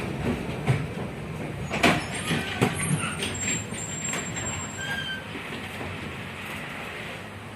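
71-619KT tram car rolling along the track, heard from inside: a steady running rumble that slowly fades, with a few sharp knocks in the first three seconds and brief high squeals between about three and five seconds in.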